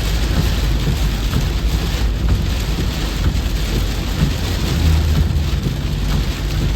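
Steady heavy rain with a constant low rumble underneath.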